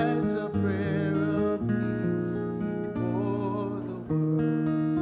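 Strummed acoustic guitar chords under a voice holding long sung notes with vibrato.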